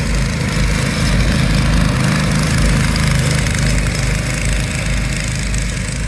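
Small engines of a go-kart and a riding lawn mower running during a drag race, a steady, loud engine note that swells a little in the first half.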